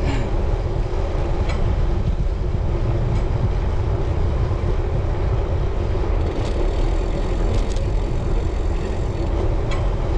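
Road bike being ridden: steady wind rush over the microphone and tyre rumble, with a few faint ticks from the bike now and then.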